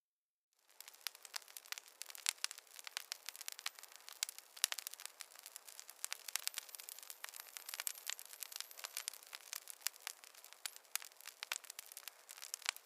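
Wood fire crackling in a fireplace, with many irregular sharp snaps and pops over a steady hiss. It cuts in after a brief moment of silence at the start.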